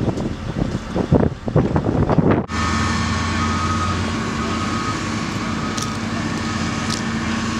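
Gusty, irregular noise, then an abrupt change about two and a half seconds in to a steady motor hum over a constant rushing noise.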